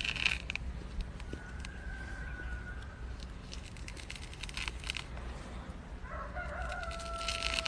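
A rooster crowing in the distance, a short faint crow about a second and a half in and a longer one from about six seconds that wavers and drops in pitch at the end. Faint clicks and rustling in clusters.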